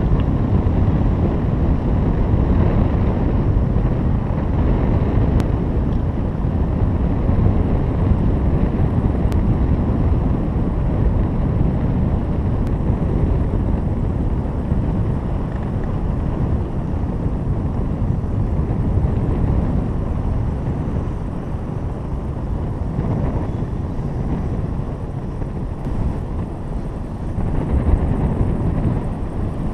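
Wind rushing over the microphone during a paraglider flight: a steady, loud low rumble that eases a little in the middle and swells again near the end.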